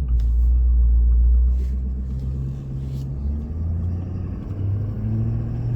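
Pickup truck engine pulling a loaded trailer away, a low rumble that is loudest for the first second and a half, then rising in pitch in steps as it accelerates through the gears.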